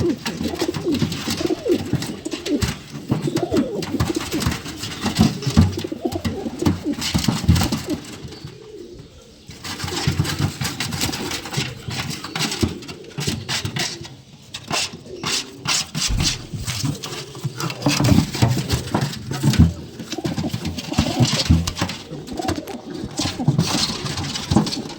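Domestic pigeons cooing repeatedly while fighting, with bursts of wing-flapping and scuffling clatter, busiest around the middle after a short lull.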